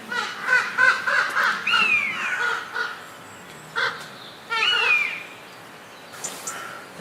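Birds calling: many short overlapping calls in the first three seconds, with a longer arching call that falls in pitch about two seconds in and again near five seconds, then fewer, quieter calls.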